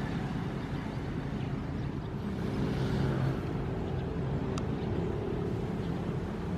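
Ocean surf: a continuous low rumble of waves, with one wave swelling and washing in about halfway through.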